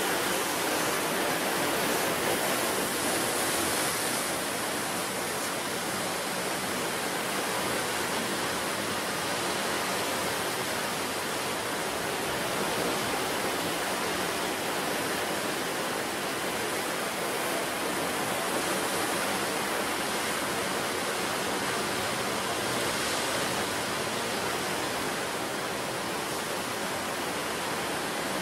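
Sea surf on the shore, a continuous rushing wash of water with slight swells now and then.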